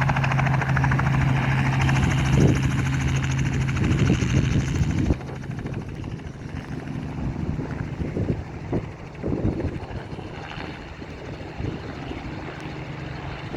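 Robinson R44 helicopter's rotor and piston engine running close by as a loud, steady low drone. About five seconds in the level drops suddenly and the helicopter is fainter, with gusty low rumbles.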